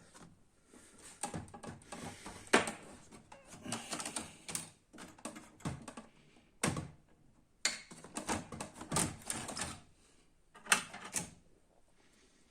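Irregular clicks, knocks and rattles of printer parts being handled and fitted as the Canon MF4410 printer is put back together, with a few sharper knocks among them.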